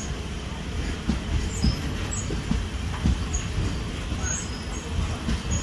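Passenger express train running along a station platform: a steady low rumble with irregular low thuds and brief high squeaks from the wheels.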